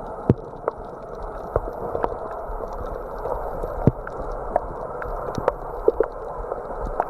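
Muffled water noise with scattered sharp clicks, roughly one a second.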